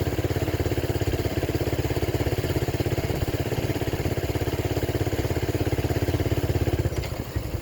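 Motorcycle engine running steadily while riding, an even, rapid train of firing pulses that eases slightly near the end.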